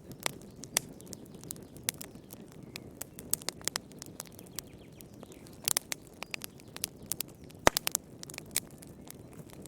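Wood fire burning in a fireplace: a steady low hiss with frequent irregular sharp crackles and pops, two louder pops about six and eight seconds in.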